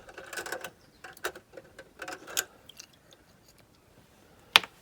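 Small parts being handled and set down, with a brief rustle at the start, scattered light clicks and taps, and one sharp click near the end.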